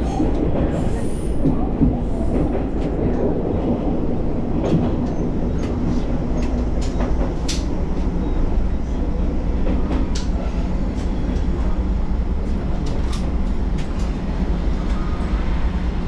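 Moka Railway diesel railcar running along the track: a steady low rumble of engine and wheels, with scattered sharp clicks over the rails.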